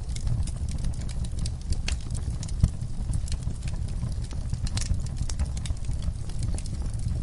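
Wood fire crackling, with irregular sharp pops over a steady low rumble of flames; one louder pop a little over two and a half seconds in.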